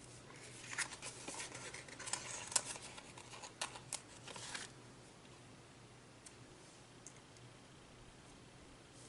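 Paper and cardstock being handled on a work surface: a few seconds of rustling with several sharp clicks and taps, then it stops and only faint room tone remains.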